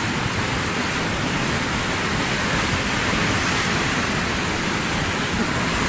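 Landslide surge of rock and mud pouring down a mountainside: a steady, even rushing noise.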